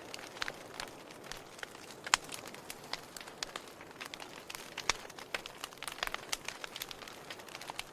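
Burning firewood crackling: irregular sharp pops and snaps over a faint steady hiss, with the loudest pops about two and five seconds in.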